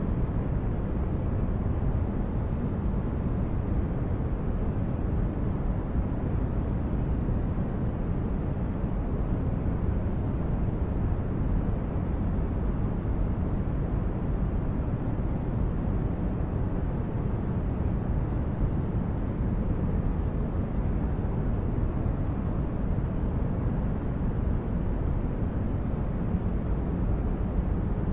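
Synthesized spaceship interior ambience: a steady, deep rumbling drone like brown noise, with a faint thin steady tone higher up, unchanging throughout.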